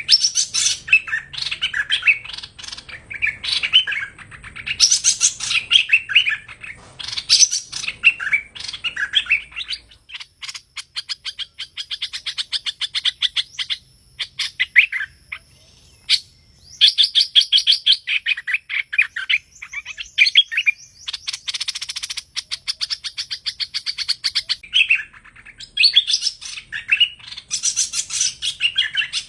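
Recorded song of the hoành hoạch, the streak-eared bulbul, used as a trapping lure. The first ten seconds are lively varied chattering phrases. Then comes a long run of rapid repeated notes lasting about a dozen seconds, and varied phrases return near the end.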